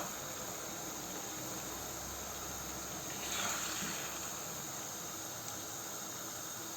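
A mix of seafood and vegetables sizzling steadily in a paella pan, with a brief louder swell about three and a half seconds in.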